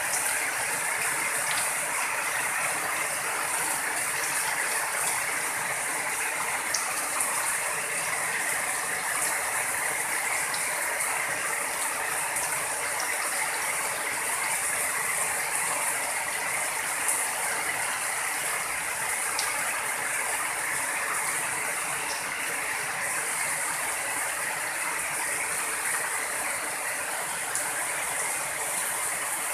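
Heavy rain falling steadily, a dense even hiss with a few sharper drip ticks scattered through it.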